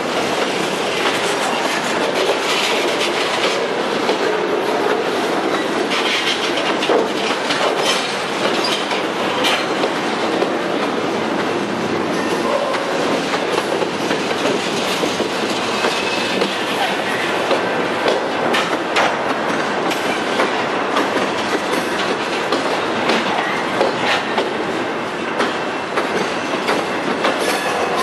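Freight cars rolling slowly past close by: a steady rumble of steel wheels on the rails, with the clickety-clack of wheels over rail joints and scattered clanks.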